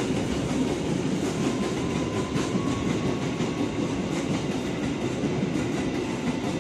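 Container freight train wagons rolling through without stopping, a steady rumble of steel wheels on rail with a scattered clatter over the track joints.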